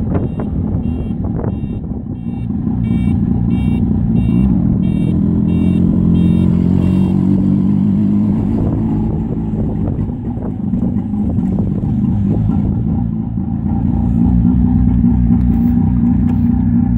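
1958 Berkeley SE328's 328 cc two-stroke twin engine running at low speed, heard from the open cockpit, its revs rising and easing as the car moves off, slows and picks up again. A rapid high electronic beeping, about three beeps a second, runs over it until about seven seconds in.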